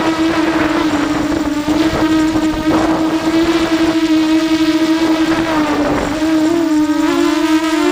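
Electric motors and propellers of a ZMR 250 racing quadcopter, heard from its on-board GoPro, giving a loud steady whine whose pitch wavers slightly with the throttle.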